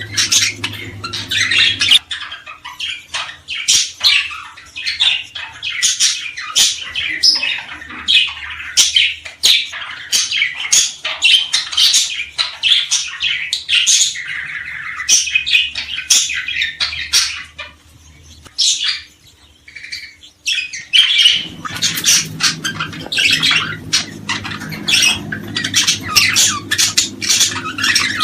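Many small birds chirping and calling rapidly over one another, dense and continuous, with a brief lull about two-thirds of the way through.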